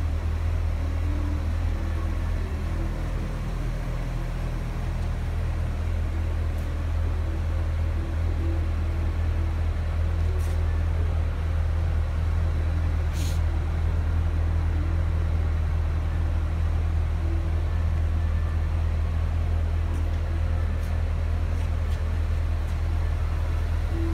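Corvette C6 Grand Sport's LS3 V8 idling steadily, a deep even hum.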